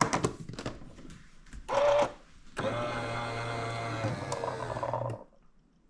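Single-serve espresso machine starting a brew with a few mechanical clicks and a short burst about two seconds in. Then a steady motorised whir and hum runs for about two and a half seconds and cuts off suddenly.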